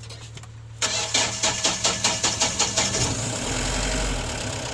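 Mahindra Bolero Pik-Up's diesel engine being cranked by the starter motor, with a rapid even chug of about five beats a second, then catching about three seconds in and settling to a steady idle. It starts now that a blown fuel-pump relay and a blown 30 A battery fuse have been replaced.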